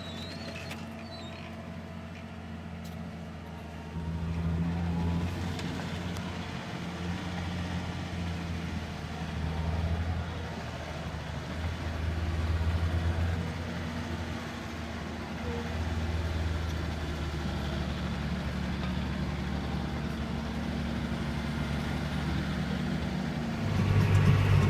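John Deere 6140R tractor's diesel engine running steadily under load while pulling a plough, its low drone swelling and easing several times.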